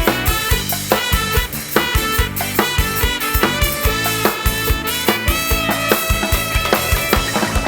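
Live band playing an upbeat instrumental passage with no singing: a steady drum-kit beat under sustained melody lines.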